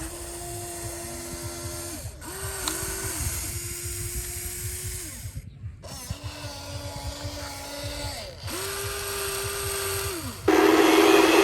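Small electric motors of radio-controlled construction models whining in spurts of a few seconds, each dropping in pitch as it stops, with gear clatter beneath. The sound cuts off abruptly about halfway, and a louder, harsher whine starts near the end.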